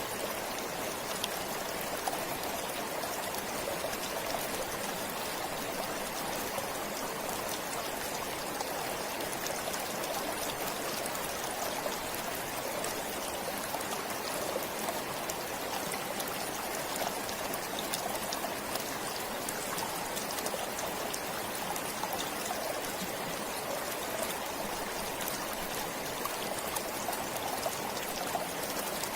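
Stream of water flowing steadily, an even rushing and trickling with fine splashy detail and no change in level.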